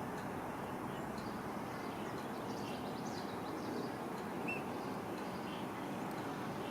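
Faint, scattered short bird chirps, one clearer note about four and a half seconds in, over a steady low background rumble.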